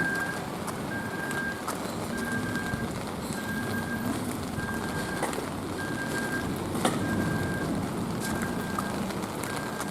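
Light rain falling on a street, a steady hiss with scattered drip ticks, one sharper tick about seven seconds in. Over it an electronic beep repeats at one pitch, about one beep every 1.2 seconds.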